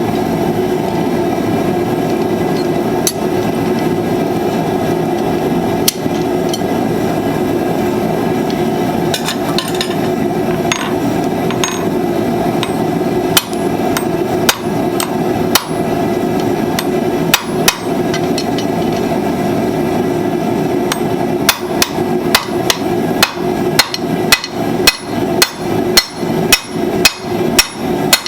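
Hand hammer striking hot steel on an anvil while forging blacksmith's flat-nib tongs: a few scattered blows at first, then a steady run of about two blows a second over the last several seconds. A continuous roar sounds underneath throughout.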